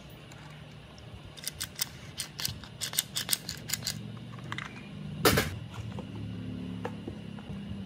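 Hand work on small parts: a quick irregular run of about a dozen sharp clicks, then a single louder knock about two-thirds of the way in, over a faint low hum.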